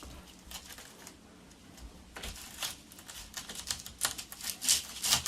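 A run of short sharp clicks and scrapes from countertop tiling work, sparse at first and coming faster and louder near the end.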